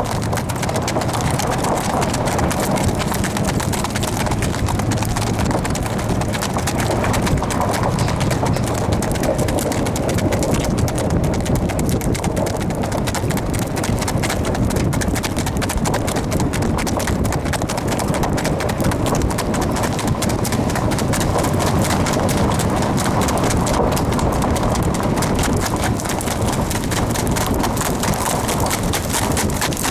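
Standardbred stallion's hoofbeats in a fast, continuous run as the horse is ridden at speed.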